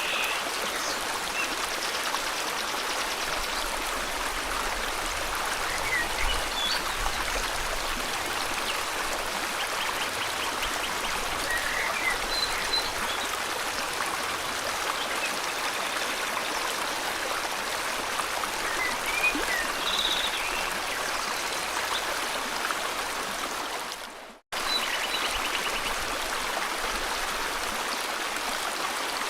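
River water flowing steadily, with scattered short bird chirps over it. About 24 seconds in the sound fades quickly to silence for a moment, then comes straight back.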